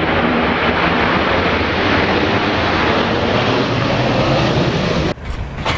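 Loud, steady noise of an airliner's engines close by. It cuts off abruptly about five seconds in and gives way to a quieter background.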